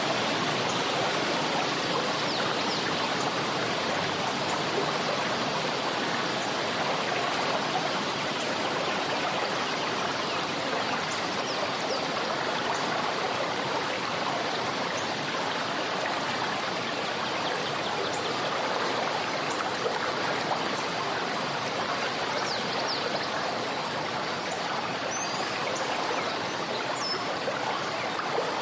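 River flowing steadily through a forest, a continuous even rush of water.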